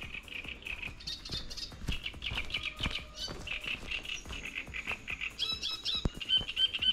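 A songbird singing: quick runs of repeated chirping notes and short trills, one phrase after another.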